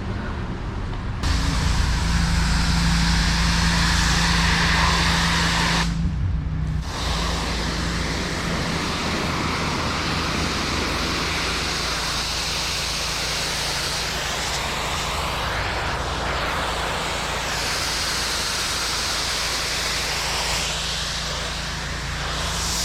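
A pressure washer's engine running steadily under the hiss of its high-pressure water spray. The spray cuts out briefly about six seconds in, then resumes.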